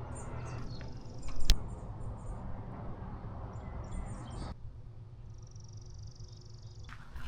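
Outdoor ambience with birds chirping and a high trill, over a low steady rumble. A single sharp knock comes about a second and a half in, and the background noise drops suddenly about four and a half seconds in.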